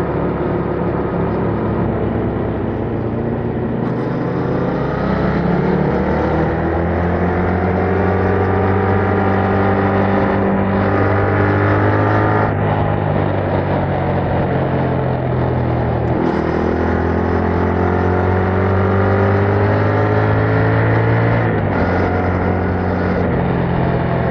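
Yamaha MT-07's parallel-twin engine through its stock exhaust, pulling hard as the bike accelerates. The engine note climbs steadily, then drops at gear changes, about three times.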